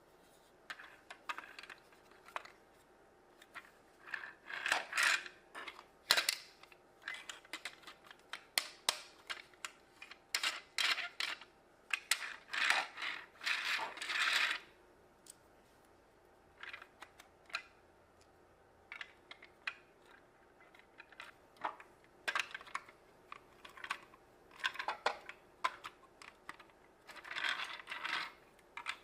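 Small plastic Mega Bloks building pieces clicking and clattering in irregular bursts as they are handled and fitted together.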